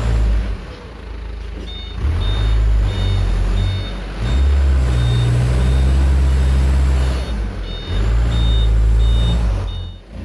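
Loaded sand dump truck reversing: its diesel engine drones heavily, rising and falling as it is revved, while the reversing beeper sounds a short high beep about every 0.7 seconds from shortly after the start until near the end.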